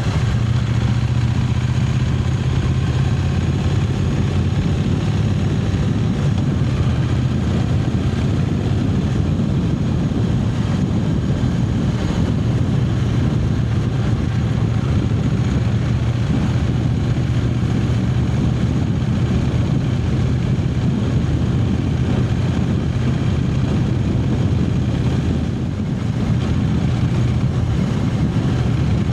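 Triumph Speed Twin 900's 900 cc parallel-twin engine running steadily while riding, with wind and road noise. The level dips briefly a few seconds before the end.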